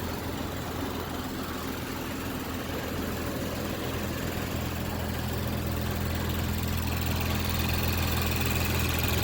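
A 2019 Audi S5 Sportback's turbocharged V6 idling steadily with a low, even hum.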